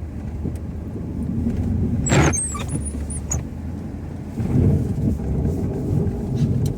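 Snowplow truck engine running under load as the lowered plow blade pushes heavy wet snow, with louder rumbling surges and a sharp clatter about two seconds in.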